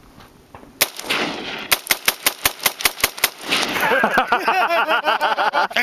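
AR-15 rifle firing: two single shots about a second apart, then a rapid string of about a dozen shots, roughly seven a second. A loud person's voice follows near the end.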